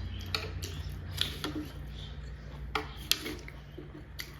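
Close-miked eating of momo dumplings: a string of short, wet mouth clicks and smacks from chewing, about seven in all, over a steady low hum.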